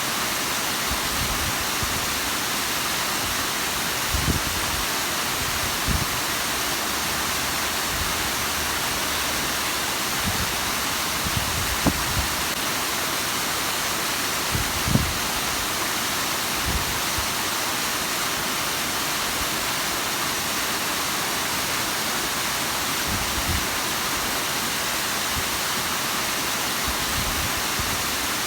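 Bigăr waterfall: falling water making a steady rushing hiss, with a few brief low thumps.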